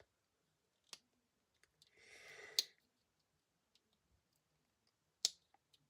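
Fingers handling a small mini-toy package that won't open: a few faint sharp clicks, about one, two and a half, and five seconds in, and a short crinkle of the packaging around two seconds in.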